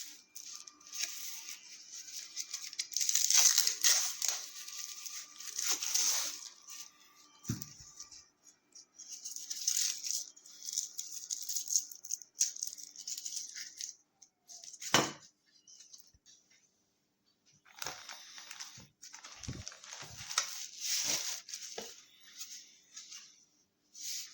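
Irregular rustling and crinkling from objects being handled, in bursts with short pauses, and a few dull knocks, the loudest about halfway through.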